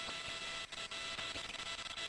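Steady hiss of the launch commentary audio line between callouts, with faint steady tones and a few faint clicks.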